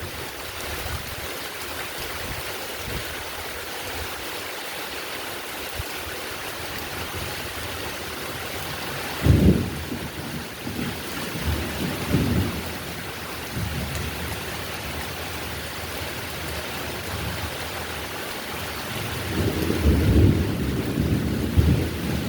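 Steady heavy rain, with thunder rumbling about nine seconds in and again near the end.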